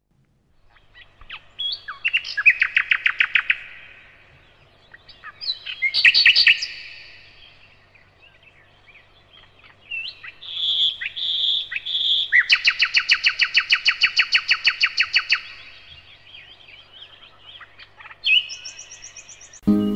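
Songbird singing: several phrases of rapid trills, the longest running about three seconds, with three clear whistled notes just before it.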